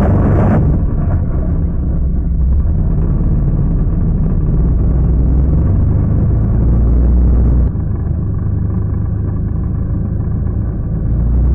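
Quad bike engine running, a steady low rumble; the engine note shifts abruptly about eight seconds in. A short loud noisy burst comes right at the start.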